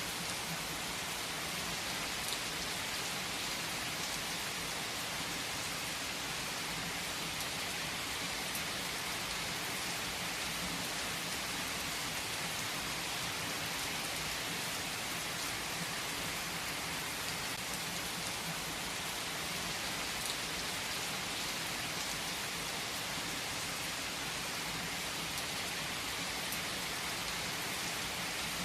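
Steady rain falling on a surface, an even hiss with a few faint drop ticks and no thunder.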